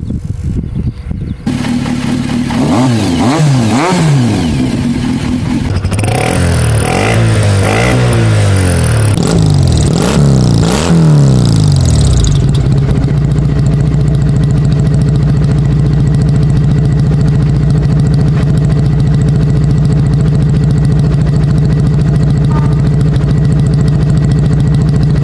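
Honda Super Cub's single-cylinder four-stroke engine pulling away and accelerating through the gears, its pitch climbing and dropping back several times at each shift, then running at a steady cruising speed from about halfway through.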